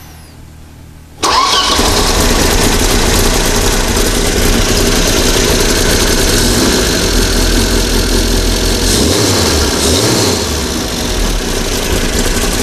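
Freshly built Volvo Amazon four-cylinder engine, fitted with a 123TUNE electronic distributor, starting for the first time: it catches almost at once, about a second in, and runs steadily. The engine note changes briefly about nine to ten seconds in.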